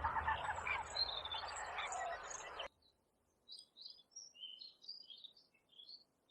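Birds chirping over a dense background noise that cuts off suddenly a little over two and a half seconds in. Then a handful of faint, short, scattered bird chirps.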